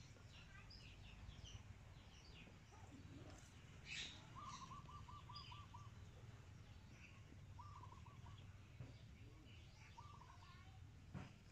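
Faint birdsong: many scattered high chirps, and a short, even trill of quick repeated notes that comes three times, over a low background rumble.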